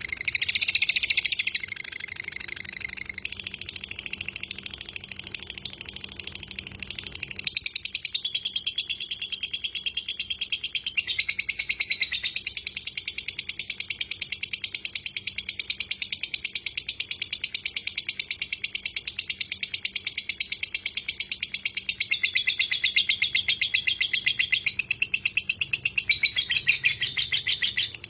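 Lovebird 'ngekek': a long, unbroken, high-pitched chattering trill made of very rapid repeated notes, shifting in pitch a few times.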